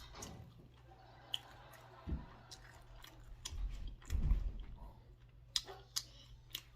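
Close-up chewing of fast food, with small wet mouth clicks scattered through. A louder low thump comes about four seconds in.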